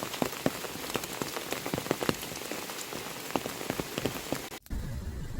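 Rain falling, with many separate drops striking close by over a steady hiss. It cuts off suddenly about four and a half seconds in, giving way to a low steady rumble.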